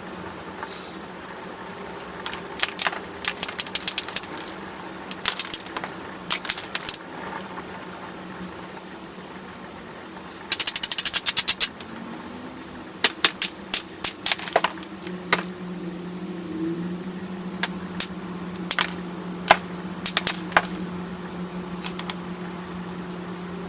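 Small stone pebble being knapped into a bird point: sharp clicks and ticks of stone on tool in irregular clusters, with a quick rattling run of clicks just over ten seconds in. A steady low hum sits underneath.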